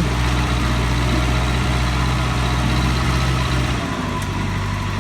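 An engine idling steadily with a low hum, which shifts to a rougher, lower sound about four seconds in.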